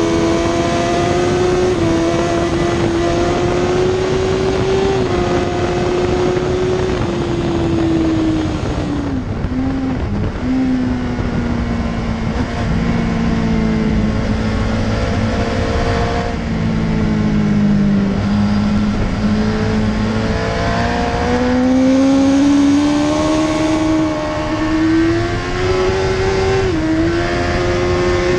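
Suzuki GSX-R 1000 K2's inline-four engine at high revs on track, with steady wind rush. Around a third of the way through, the revs fall as the bike brakes and shifts down, and it pulls at lower revs for a while. In the last third it revs up hard again, with a brief dip for an upshift near the end.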